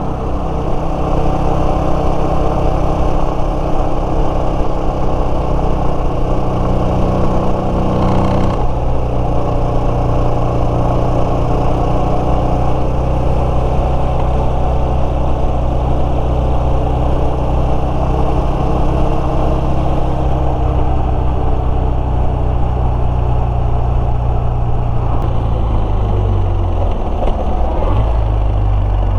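Yamaha Serow 250's single-cylinder engine running steadily under way, with a change in engine note about eight seconds in and the revs falling near the end.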